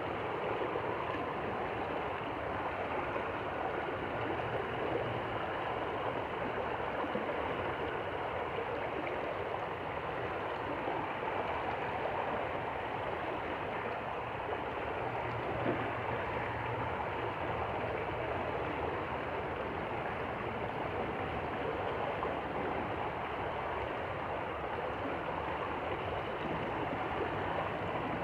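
Stream water running steadily over rocks, an even rushing and babbling with no change in level.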